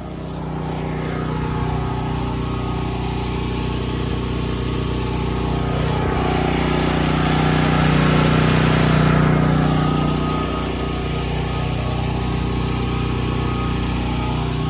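Portable generator engine running steadily, with a broad swell that rises and falls about six to ten seconds in.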